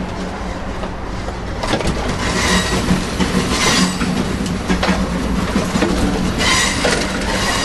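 Amtrak California Zephyr passenger train running, heard at the doors between two cars: a steady rumble of wheels on rail with rattles and clanks. It grows louder about a second and a half in, and brief high squeals come twice.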